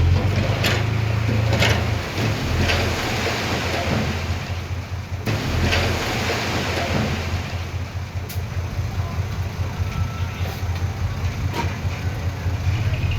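Heavy earthmoving machine's diesel engine running steadily, with a few sharp clanks scattered through.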